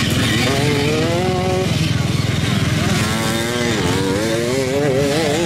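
Several off-road racing engines at full throttle, overlapping, their pitch rising and falling as the riders rev up, ease off and accelerate again; around four seconds in one engine drops sharply in pitch and then climbs back.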